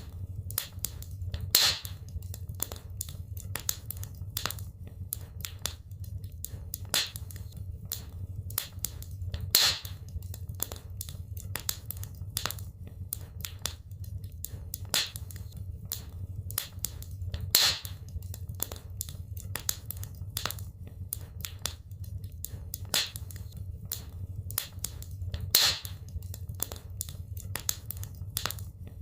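Wood fire crackling in a fireplace: many small sharp pops and snaps over a low steady rumble, with a louder pop about every eight seconds.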